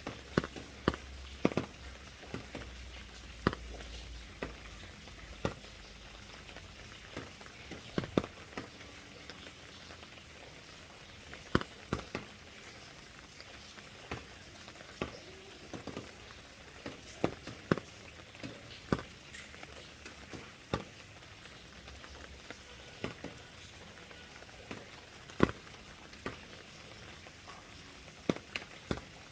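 Rain: big drops falling irregularly and tapping sharply on a surface, some much louder than others, over a faint steady hiss of lighter rain.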